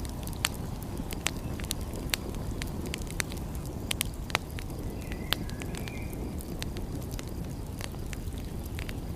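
Wood fire crackling: sharp, irregular pops and snaps over a steady low rumble.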